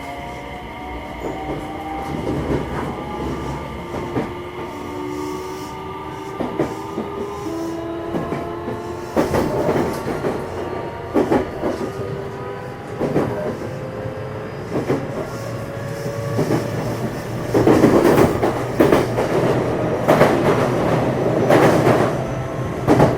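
Traction motor and Hitachi IGBT VVVF inverter whine of a JR West 227 series motor car, several tones slowly rising in pitch as the train gathers speed. From about a third of the way in, loud wheel-and-rail running noise with clattering knocks over rail joints builds up and is loudest in the last few seconds.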